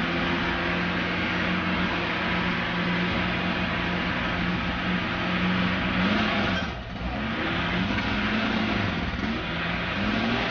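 Lada Niva's engine running hard, its note held steady at first, then rising and falling repeatedly as it is revved, over a dense rushing noise. The sound briefly dips about seven seconds in.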